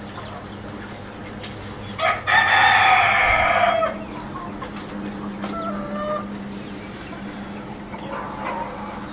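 A rooster crowing once, one loud call lasting about two seconds, followed by a few softer clucks.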